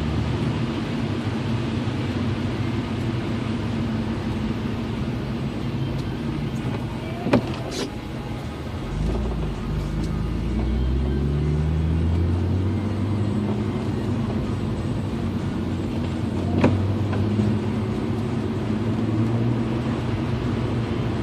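BMW E36 M3 driving, its straight-six engine running under steady road noise. The engine pitch climbs as it accelerates about nine to twelve seconds in. Two sharp clicks come about seven and seventeen seconds in.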